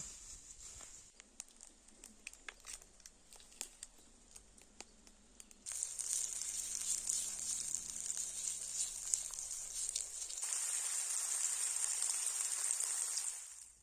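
Scattered clicks and crackles, then a steady high hiss with crackles that starts abruptly about six seconds in and grows fuller about ten seconds in: meat sizzling on a hot stone.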